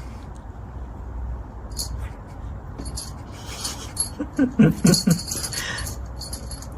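A dog giving four short, pitched vocalisations, close together about four to five seconds in, over a light metallic jingling and a steady low hum.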